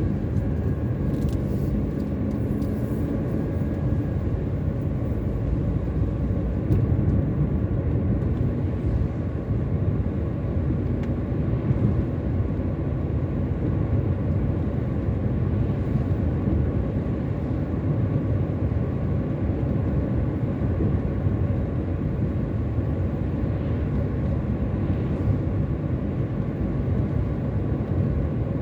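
Steady road noise of a moving car heard from inside the cabin: a constant low rumble of engine and tyres, with a few faint engine tones early on.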